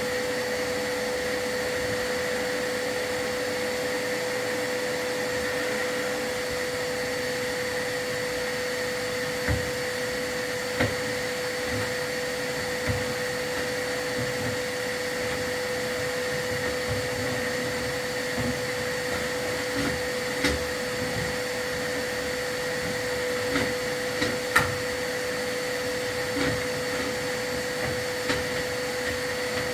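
A vacuum running steadily with a constant whine, as used by a chimney sweep to keep soot from escaping the fireplace. From about a third of the way in, irregular short knocks and taps sound over it.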